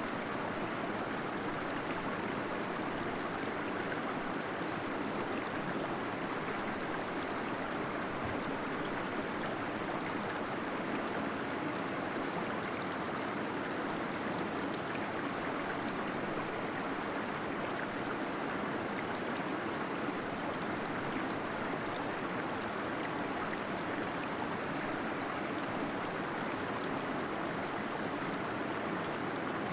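A small waterfall splashing and gurgling steadily inside a cave.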